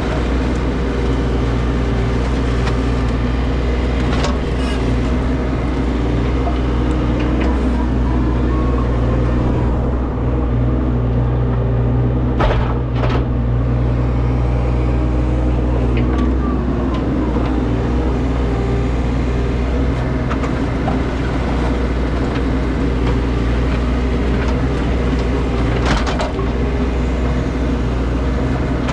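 Diesel engine of a compact excavating machine running steadily while digging out soil, with a few sharp knocks: one about four seconds in, two close together near the middle and one near the end.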